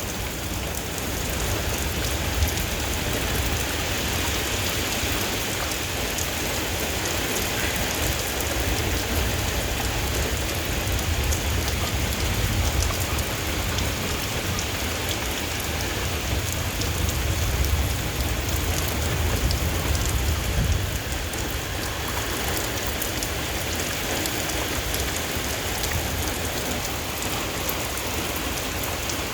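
Heavy rain pouring down in a thunderstorm, a steady dense hiss of drops hitting the ground and nearby surfaces. A low rumble runs underneath and eases off about two-thirds of the way through.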